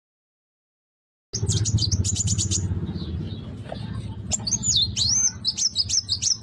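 Young kuwul bird singing. After about a second of silence it starts with a rapid run of high chirps, then moves into sweeping, rising and falling whistled notes, over a steady low rumble.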